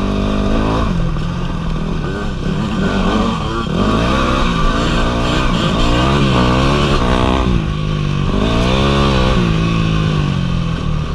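Dirt bike engine running while riding, its pitch rising and falling several times as the throttle is opened and closed.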